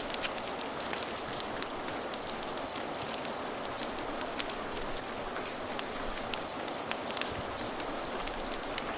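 Steady rain, an even hiss dotted throughout with many small, sharp ticks and crackles.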